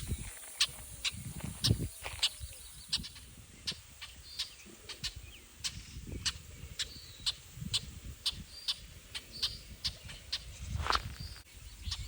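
Blackbirds giving sharp alarm calls at a cat, short clipped notes repeated about twice a second, with one louder call near the end.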